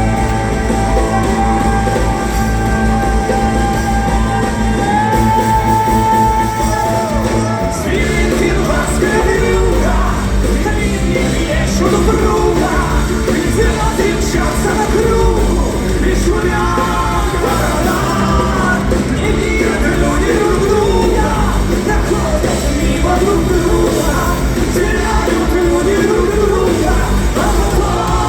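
Live band music, loud and continuous, with voices over it. Long held notes for the first seven seconds or so give way to a busier passage of wavering sung lines.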